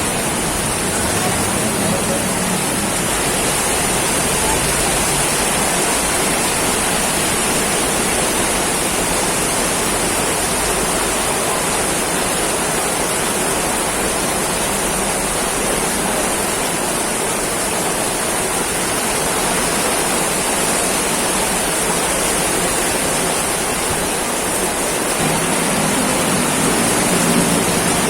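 Torrential rain pouring down in a steady, loud hiss.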